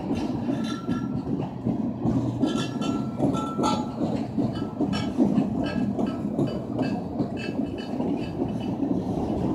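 Train cars rolling past with a steady rumble and frequent metallic clanks, with a few short wheel squeals about three seconds in.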